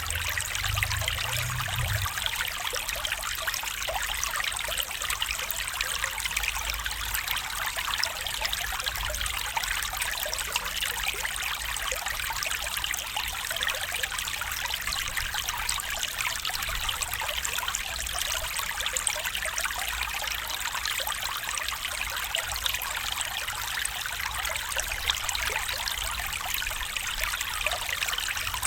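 A stream of water flowing and trickling steadily, an even rushing babble without a break.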